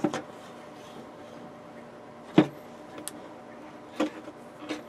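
Small parts being handled on a workbench: a few separate light knocks and clicks, the loudest about two and a half seconds in, over a steady faint hum.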